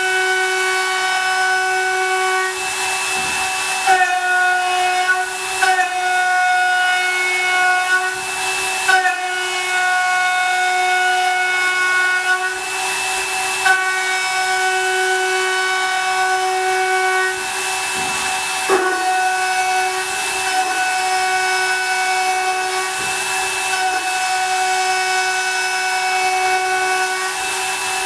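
CNC milling machine cutting aluminium: a steady high-pitched whine of several pitches over a hiss of cutting, with brief shifts and small knocks every few seconds as the cut changes.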